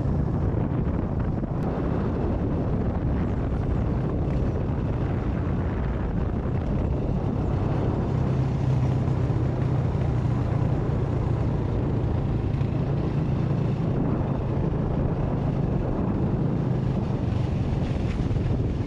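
Motorcycle engine running steadily on a ride, with a rush of wind over the microphone.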